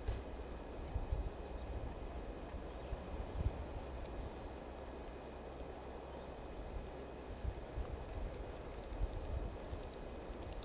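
Small songbirds giving short, high-pitched calls, singly and in quick runs of three or four notes, over a steady low rumble.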